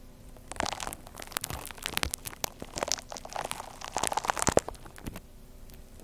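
Gritty kakigori (shaved-ice) slime being squeezed and worked by hand, giving a dense run of crunching and crackling. It starts about half a second in, goes on in bursts, and falls quiet for the last second or so.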